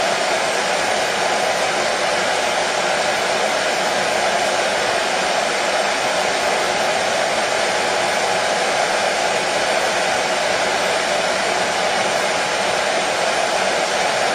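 Hair dryer running continuously, an even rushing blow with a steady hum that does not change.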